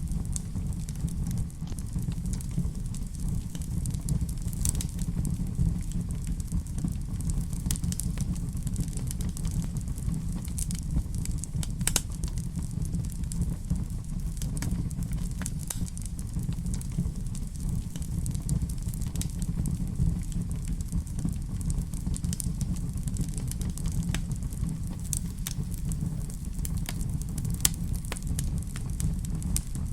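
Wood fire burning in a fireplace: a steady low rumble of flames with irregular crackles and sharp pops, a few louder ones along the way.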